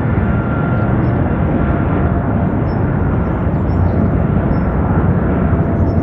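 Boeing 777 twin turbofan jet engines running at high power, a loud, steady rumble with a faint high whine over it.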